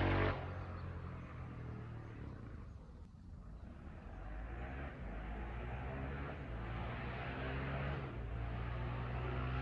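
Husqvarna 701's single-cylinder engine running through its exhaust: loud for a moment at the start, then dropping away, quietest about three seconds in, and building back up steadily toward the end.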